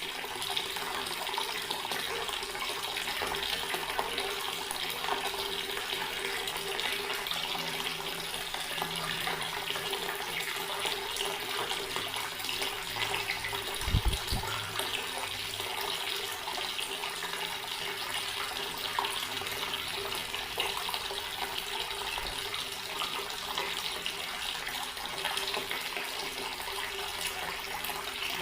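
Water running steadily from a tap in a continuous stream, with one short low thump about halfway through.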